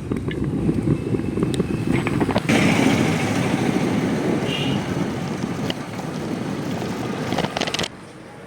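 Wind buffeting the microphone of a moving bicycle, mixed with town road traffic. The noise grows a little brighter about two and a half seconds in and drops off suddenly near the end.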